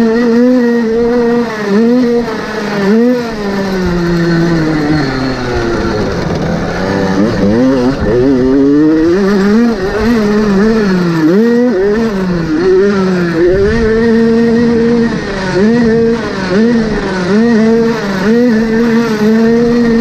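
Motocross motorcycle engine revving hard, its pitch rising and falling again and again with the throttle and gear changes. About four seconds in it winds down for a couple of seconds, then climbs again and keeps surging.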